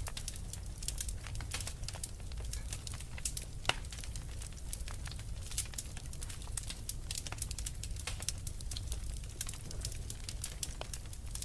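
Wood fire burning in a fireplace, crackling with many small irregular pops over a steady low rumble, with one louder pop about a third of the way through.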